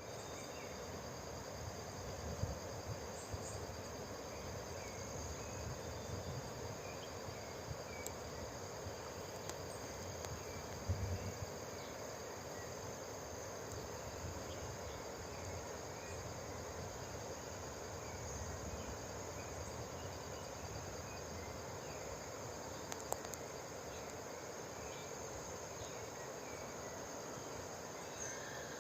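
Forest ambience: a steady high-pitched insect drone with scattered faint chirps over an even background hiss, broken by a few brief low bumps about two seconds in and again near eleven seconds.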